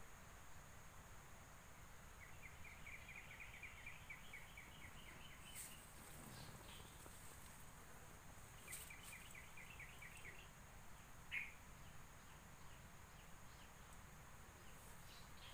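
Faint outdoor ambience in which a small bird twice gives a quick run of repeated chirps, about five a second, followed later by one short, sharper call.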